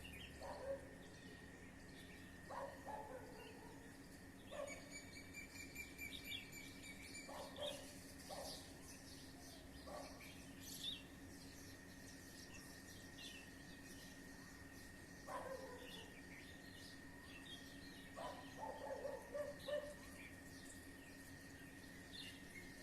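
Birds in a tree chirping and calling, faint, with scattered short high chirps and trills and a few lower calls, over a faint steady tone.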